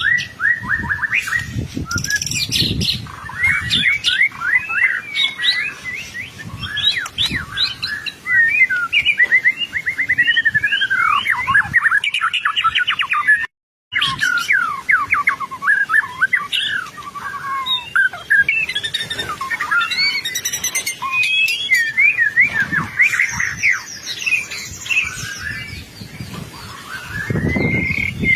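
White-rumped shama singing vigorously: a fast, varied stream of rich whistled phrases and trills, broken once by a brief gap about halfway through.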